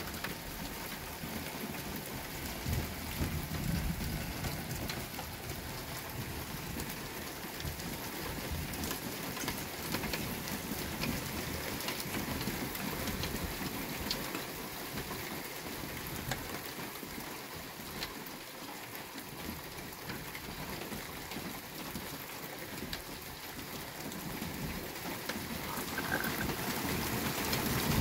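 Steady rain falling during a thunderstorm, with a low rumble of thunder a few seconds in; the rain grows a little louder near the end.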